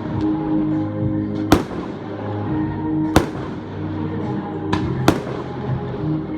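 Fireworks exploding: four sharp bangs a second or two apart, the last two close together, over music playing steadily underneath.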